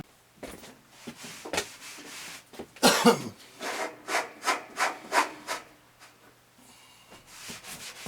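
An irregular run of short rubbing and scraping strokes, a dozen or so in the first five seconds, then fewer and fainter, over a faint steady hum.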